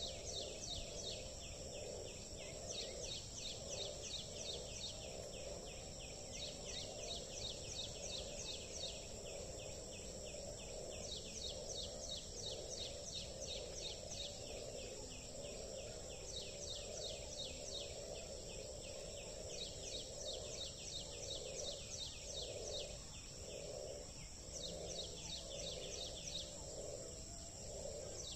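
Frogs croaking in a chorus, a pulsing low croak that breaks into separate, distinct croaks near the end. Over it a bird sings runs of rapid, quickly repeated high chirps, with a steady shrill high hum beneath.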